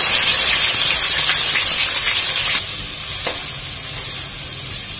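Ginger-garlic paste sizzling loudly in hot coconut oil in a stainless steel pot, dropping to a quieter, steady frying about two and a half seconds in as a spatula stirs it.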